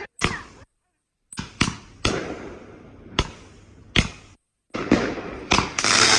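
A 96-shot consumer firework cake firing: a string of sharp bangs at irregular intervals, each fading off, with thicker crackling near the end.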